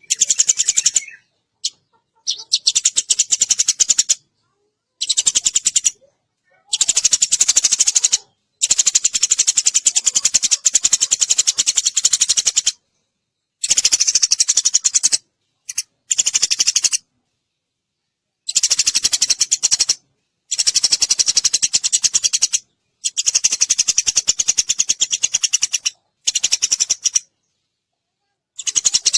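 Sparrows chirping rapidly and densely, a recorded lure call used to draw birds to a trap. The chirping comes in bursts of one to four seconds, broken by short gaps where it cuts off abruptly.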